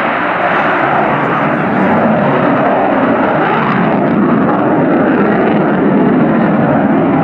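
Loud, steady jet noise from the F-35B Lightning II's single jet engine, growing a little louder about two seconds in.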